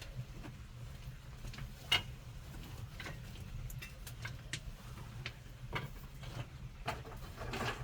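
Scattered light clicks and knocks, as of objects being handled and set down, the sharpest about two seconds in, over a low steady hum.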